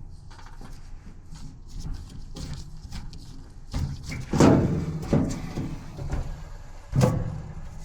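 A run of small clicks and louder knocks and clatter from parts being handled. The loudest knock is about four and a half seconds in, with more around five seconds and seven seconds in.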